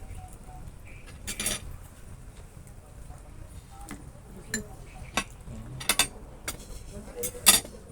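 Spoon and fork clinking against plates while eating: a series of short, sharp clinks, the loudest near the end.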